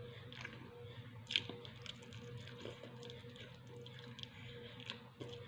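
Close mouth sounds of a person chewing rice and chicken eaten by hand: soft wet smacks and small clicks, one sharper click about a second and a half in. A steady low hum runs underneath.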